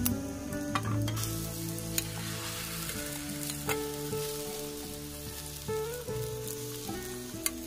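Whipped egg whites sizzling as they are spooned into hot oil in a frying pan, with a few sharp clicks of a metal spoon against the bowl and pan.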